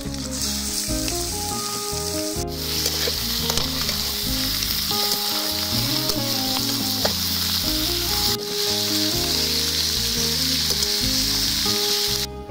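Pork belly frying with onion and garlic in a hot wok, a steady sizzle, stirred and turned with a metal spatula. Soft background music plays underneath.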